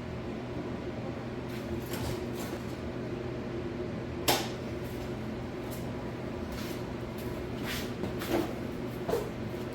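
A few sharp metal clanks and knocks of hand tools being handled on the grapple's cylinder rod, the loudest about four seconds in, over a steady hum.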